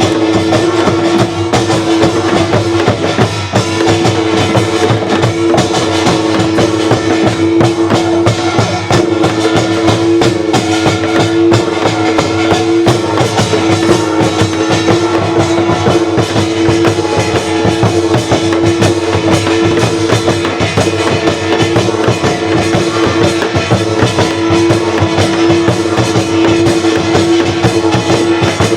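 Loud, continuous traditional Korean instrumental music: drums and metal percussion playing steadily over a long held note that hardly breaks.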